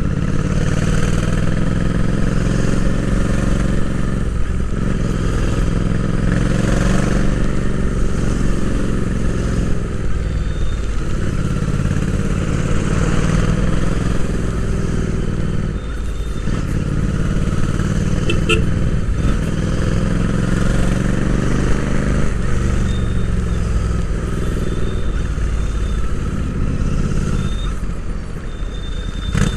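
Royal Enfield Interceptor 650's parallel-twin engine and exhaust heard from onboard, pulling up through the revs several times with a drop in pitch at each gear change.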